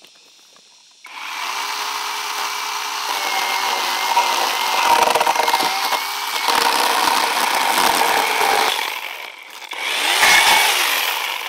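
A power saw cutting through timber. It starts abruptly about a second in and cuts steadily for about eight seconds, drops away briefly, then cuts again near the end.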